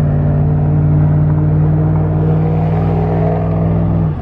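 A vehicle's engine running at a steady pace while being driven, a constant low drone heard from inside the cab with the window down.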